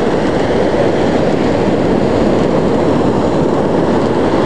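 Ocean surf and wind on the camcorder microphone, a steady loud noise with no breaks.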